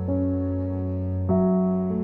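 Background music: slow, soft piano chords, a new chord entering about a second and a quarter in.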